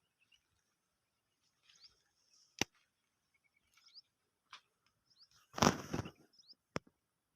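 Small birds chirping faintly in short gliding calls, with a few sharp clicks and a short, loud rush of noise a little after the middle.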